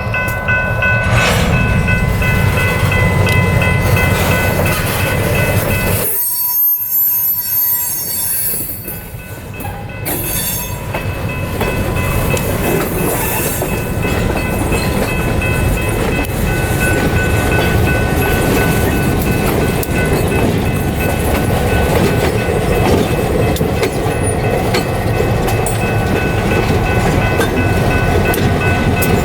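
EMD SW1200 switcher locomotive's diesel engine running steadily as it moves freight cars, with a faint steady high whine over the low rumble. The sound dips briefly about six seconds in and then resumes.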